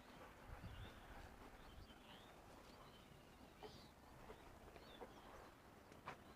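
Faint bird chirps: short, scattered calls of small birds over a quiet background, with a single soft click near the end.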